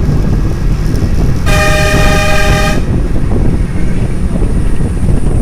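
A horn sounds one steady blast of a little over a second, about a second and a half in, over heavy wind rumbling on the microphone.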